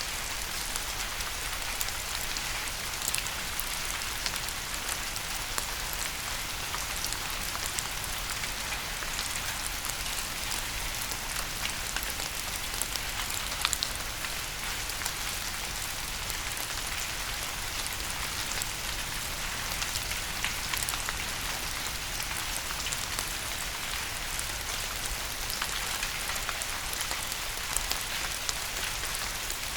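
Steady rain falling on a surface, an even hiss scattered with many distinct, sharp drop hits.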